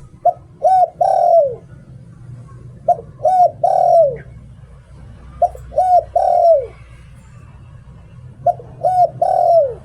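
Spotted dove cooing in the 'liu tan' phrase style: four phrases about every two and a half seconds, each two short coos followed by a longer coo that falls in pitch at its end.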